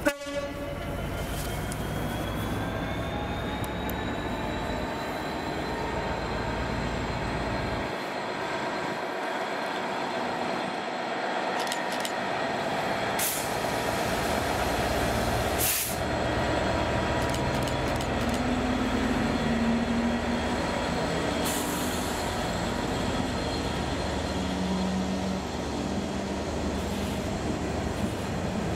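Colas Rail Class 66 diesel locomotive, its two-stroke V12 engine working under power, hauling a freight train of open wagons past at speed, with a short horn blast right at the start. The engine sound builds as the loco draws level, then gives way to the wagons rolling by with wheel clatter.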